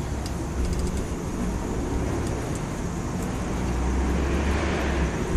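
A motor vehicle running nearby: a steady low rumble that swells about three and a half seconds in.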